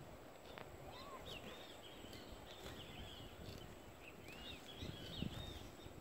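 Small birds chirping, many short arching notes in quick succession, over a low rustling background.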